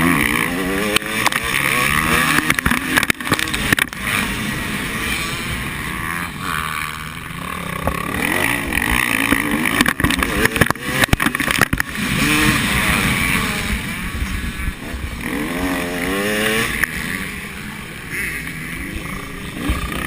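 Motocross motorcycles racing round the track, their engines revving up and falling away in pitch again and again, with a few sharp crackles in places.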